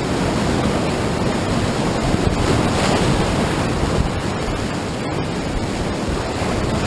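Whitewater of a river rapid rushing steadily and loudly.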